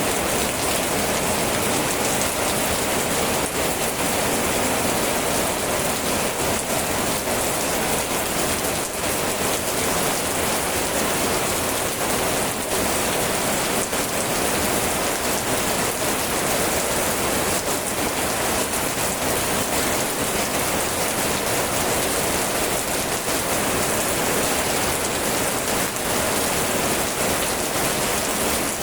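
Steady heavy rain falling and pattering on a surface, an even continuous hiss with fine drop ticks throughout.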